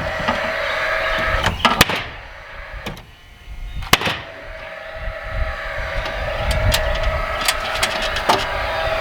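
A motor running steadily, broken by a few sharp knocks. The motor sound drops away for about two seconds near the middle, then comes back.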